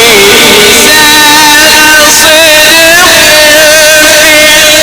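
Male Quran reciter's voice in tajweed recitation, holding long ornamented melodic notes that waver and slide in pitch. The sound is very loud.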